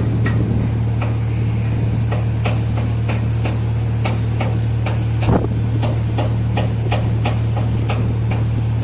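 Steady low drone of running machinery with regular sharp knocks about three a second, like repeated hammering, and one heavier thump about five seconds in.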